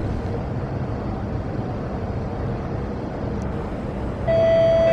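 Steady low rumble of rail-station background noise, then about four seconds in a public-address chime begins with a loud, held bright tone that steps down to a lower note at the very end, the signal before a station announcement.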